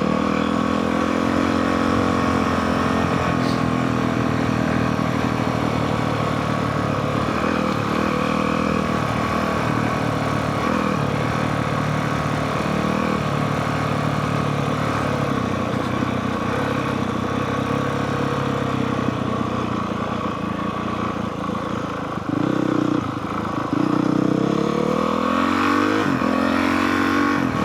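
Honda CRF450R dirt bike's single-cylinder four-stroke engine running steadily while riding downhill. About three-quarters of the way through the revs dip, then climb again in a rising pitch near the end.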